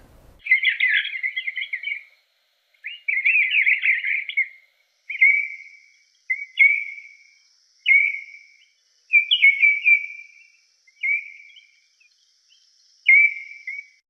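Baltimore orioles calling: two longer chattering phrases in the first few seconds, then a string of short high whistled calls about a second apart.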